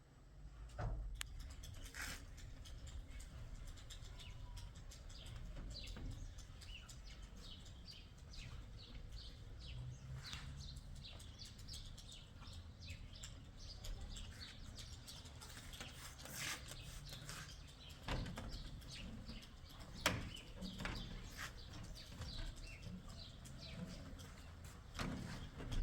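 Small birds chirping in many short, scattered calls over a low rumble, with a few sharper clicks.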